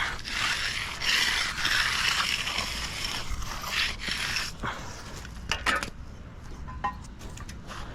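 Irregular scraping and rubbing strokes, then a run of short clicks and taps about five to seven seconds in.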